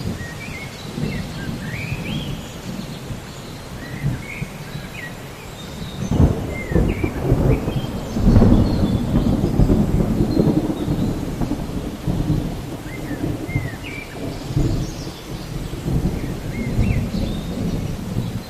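Thunderstorm: steady rain with a low rolling rumble of thunder that builds and is loudest from about six to eleven seconds in. Short bird chirps come and go above it.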